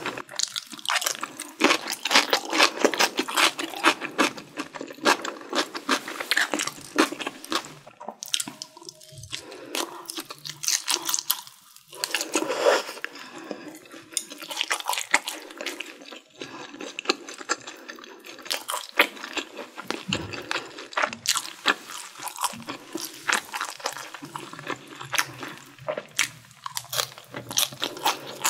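Close-miked chewing of crunchy food: a rapid, uneven run of crisp crunches and wet mouth clicks, with a few short pauses between mouthfuls.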